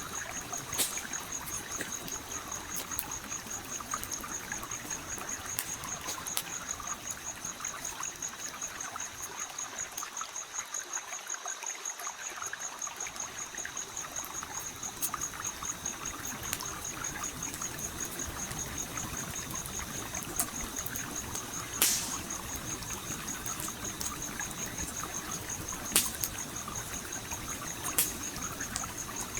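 Stream flowing and trickling, with a campfire crackling in scattered sharp pops, the loudest about three-quarters of the way through and near the end. A steady high-pitched trill runs behind.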